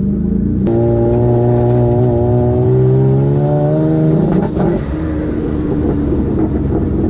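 Turbocharged engine of a twin-engine Mazda MX3 accelerating, its pitch rising steadily for a few seconds, then stumbling and dropping about four seconds in as it breaks up. The breaking up is a fuel cut, which the owner traces to wrong cells in the tune that put no fuel in.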